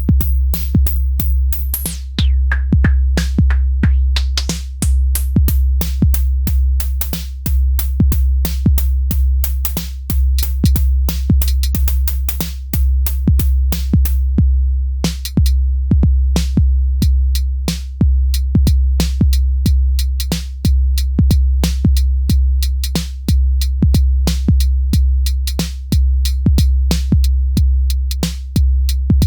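Elektron Syntakt drum machine playing a looping electronic beat: a deep kick and bass under a fast, even run of hi-hat ticks. A high, falling zap sweeps down near the start, and the hats drop out briefly about halfway through.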